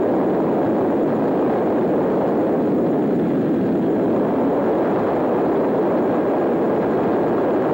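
Twin radial piston engines of a PBY-5A Canso water bomber running steadily, a loud even noise that does not change.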